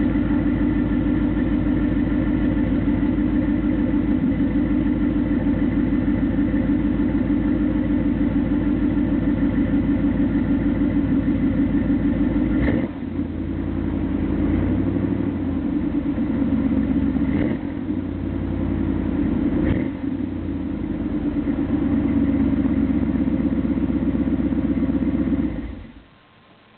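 Exhaust of a cammed 5.7-litre TBI V8 through a Thrush 17660 muffler, running with an even, rapid pulse; about halfway through the note changes and shifts a few times, and the sound cuts off near the end.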